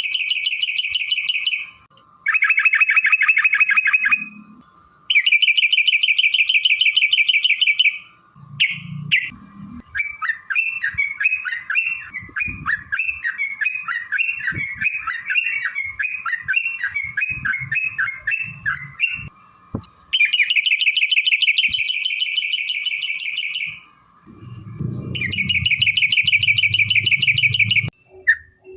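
Yellow-vented bulbuls (trucuk) calling in long, rapid rattling trills. Each trill lasts two to three seconds, and they come five times, with a stretch of quicker, varied chattering notes in the middle. These are the excited 'ropel' calls of rival birds sparring. A low rumble runs under the last trill.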